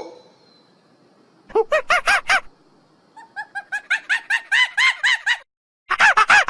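Monkey calls in quick runs of short pitched notes that each rise and fall: a burst of about six after a quiet start, then a longer run of about a dozen, then louder, harsher calls near the end.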